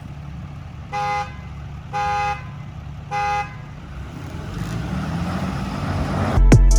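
Pickup truck horn honked three times, short toots about a second apart, over a steady engine idle. In the last seconds the engine noise swells and music comes in.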